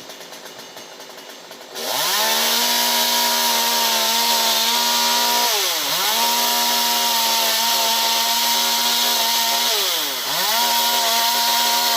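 Chainsaw engine going from a lower level to full throttle about two seconds in and holding a high, steady whine, most likely cutting through the elm. The revs drop briefly twice and come straight back up, then fall away at the end.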